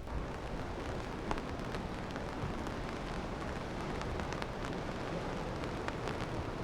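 Steady rain falling, with many scattered sharp drop hits over a steady low rumble.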